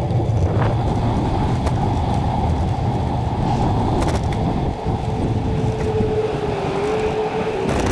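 Road traffic going by as a steady din. A faint steady hum joins about five seconds in and drops a little in pitch near the end.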